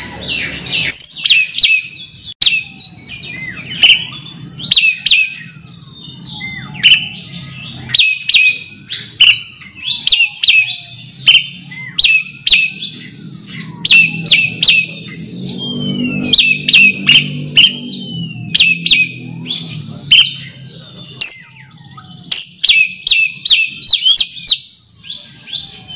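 Oriental magpie-robin (kacer) giving its challenge call to rivals: loud, rapid bursts of sharp whistles and chirps repeated every second or so. A low hum sits underneath, strongest in the middle.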